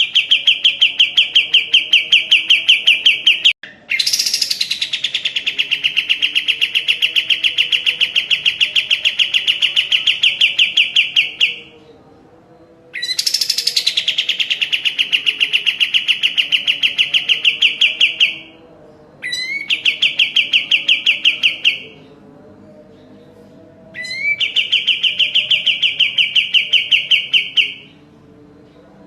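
Kapas tembak songbird singing its long, rapid, rattling trill in five bouts of a few seconds each, separated by short pauses. Each bout opens with a quick rising note.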